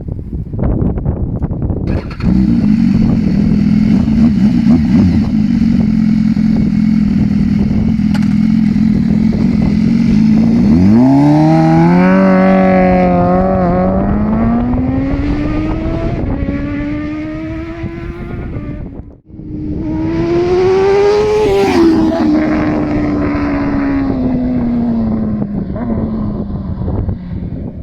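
BMW S1000RR inline-four superbike engine with an aftermarket exhaust, loud. It holds a steady note for about ten seconds, then accelerates hard with the pitch climbing through several gear changes. After a short break it rises again and slowly falls away.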